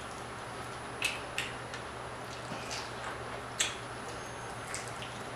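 Soft eating sounds from chewing fried croaker picked off the bone: a handful of short mouth clicks and smacks, the sharpest about a second in and past the halfway mark, over a steady low hum.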